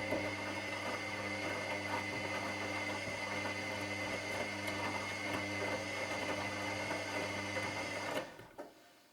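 Washing machine on its wash cycle: the drum motor runs with a steady hum and a churning noise as the drum turns, then cuts off suddenly about eight seconds in, followed by a couple of faint clicks.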